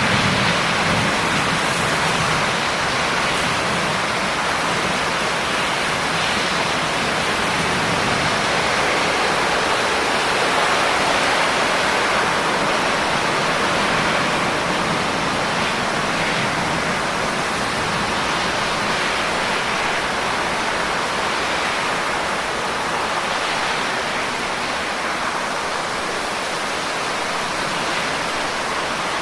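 Steady, even hiss of heavy rain falling, with no distinct drops or thunder standing out.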